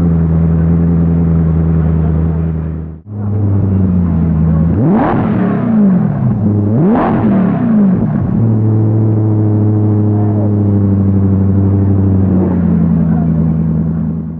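Koenigsegg CC8S's supercharged V8 idling, blipped twice in quick revs that rise and fall about five and seven seconds in, then settling back to idle. A brief dropout about three seconds in.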